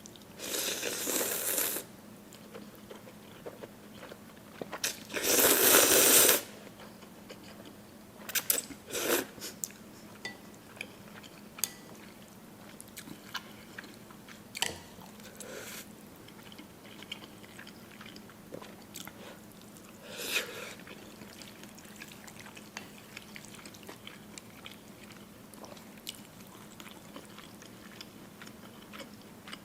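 Close-up eating sounds of spicy noodles with beef: chewing and biting, with two loud bursts of about a second each early on and scattered short mouth clicks after.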